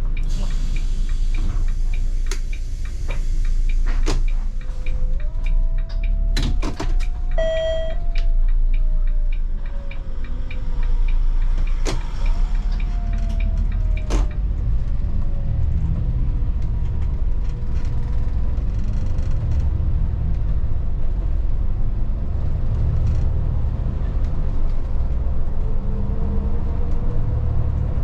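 Volvo 8900 city bus heard from inside: clicks and knocks of the doors and fittings, a short beep about seven seconds in, then the engine and drivetrain pulling away with a whine that rises and falls twice through the gear changes before settling to a steady cruise.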